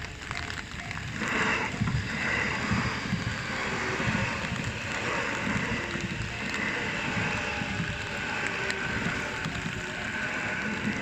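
Electric train passing over a railway level crossing: a steady rumble and clatter of wheels on rail that builds about a second in, with a faint whine over it.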